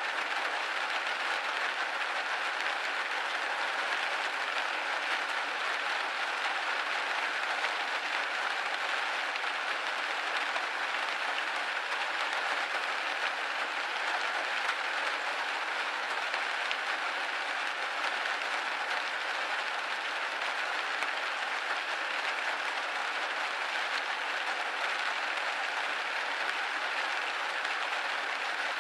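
Steady rain pattering against a window pane, a dense even hiss of drops with no pauses or swells.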